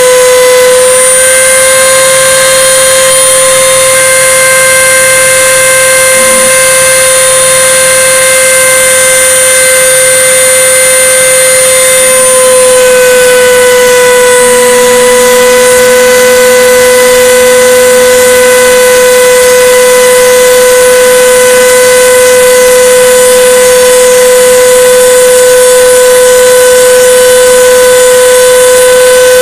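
CNC router spindle running with a loud, steady whine while the bit cuts 5 mm plywood. The pitch steps up slightly about a second in and drops back about twelve seconds in, as the load on the bit changes.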